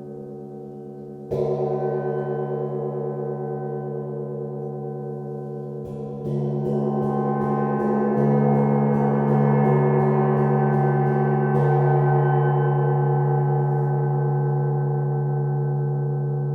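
Gong ringing with slowly pulsing metallic tones. It is struck once about a second in, then from about six seconds a quick run of strikes, about three a second, builds the sound louder until they stop near twelve seconds and the gong rings on.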